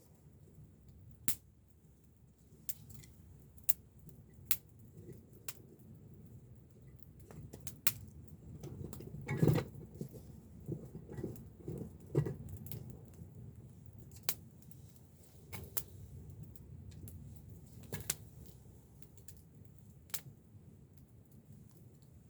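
Wood campfire crackling: irregular sharp pops over a low steady rumble, with a few louder knocks bunched together about halfway through.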